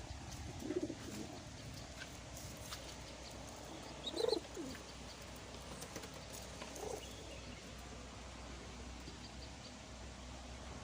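Doves cooing: three low coos, about a second in, at about four seconds (the loudest) and near seven seconds, with faint bird chirps between them.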